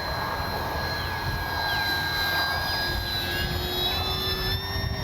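Electric motor and propeller of a 1500 mm RC Cessna 182 whining steadily in flight, its pitch sliding a few times in the second half, with wind rumbling on the microphone.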